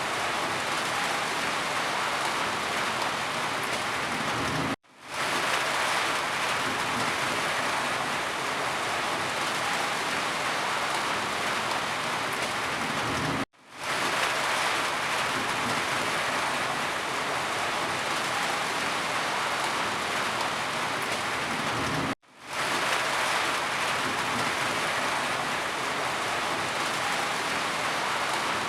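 Steady heavy rain falling on a surface. Three times, about every nine seconds, the sound cuts out suddenly for a split second and swells back in.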